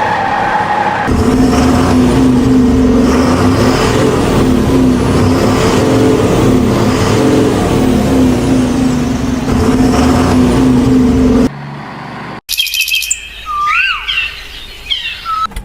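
A motor vehicle's engine running steadily and loudly, cutting off abruptly about eleven seconds in. It is followed by birds chirping in short whistles that glide up and down.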